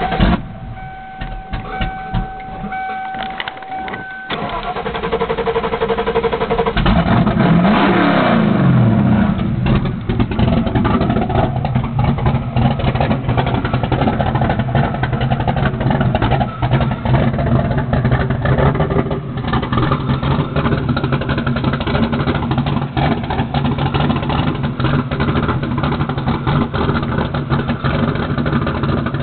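A steady tone sounds for about four seconds. Then a 347 stroker small-block V8 with shorty headers and a straight X-pipe, no mufflers, cranks and fires. It revs up once and falls back, then settles into a steady idle.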